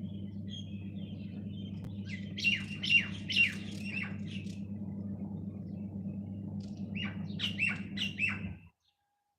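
A bird chirping: two quick runs of about five short, downward-sweeping chirps, over a steady low hum. The sound cuts off abruptly near the end.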